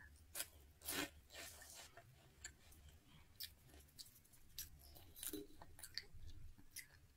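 Faint chewing of crunchy puffed cheese curls: a scatter of soft, short crunches spread irregularly through the silence.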